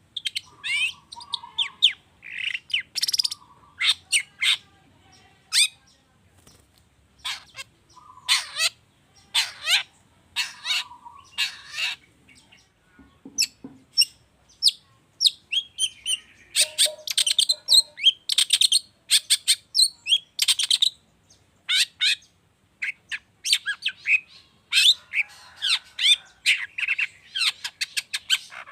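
Long-tailed shrike (cendet) singing a rapid, varied song of sharp chirps, trills and harsher notes in bursts with short pauses, its song filled with phrases copied from other birds.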